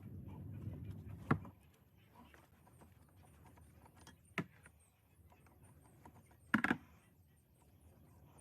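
A low rumble, then a few sharp knocks: one about a second in, another near the middle, and a quick double knock about two-thirds through.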